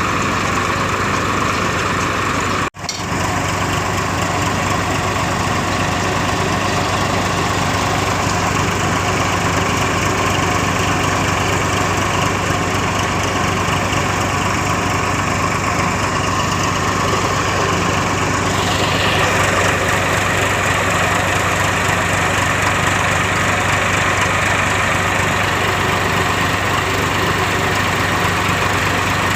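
Tractor engine running steadily under a constant drone while driving a cutter machine. The sound drops out for an instant about three seconds in.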